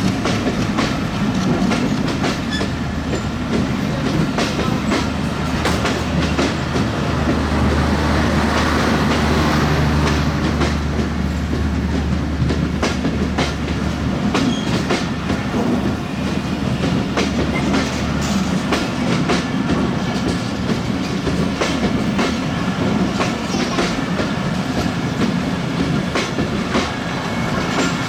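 Express passenger train running past at speed, its wheels clicking steadily over the rail joints in a continuous clatter. A low drone sits under the clatter and fades out about two-thirds of the way through.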